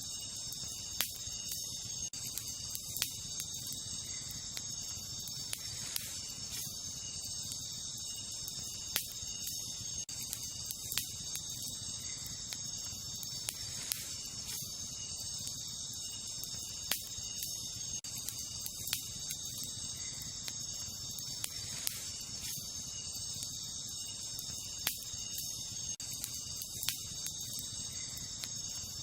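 Wood campfire crackling, with sharp pops every second or two over a low steady hiss of the burning. Behind it runs a steady high chorus of night insects such as crickets.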